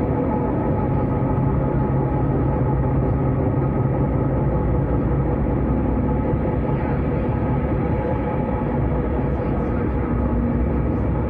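Electric S-Bahn commuter train running on the rails: a steady rumble of wheels on track with a constant hum over it.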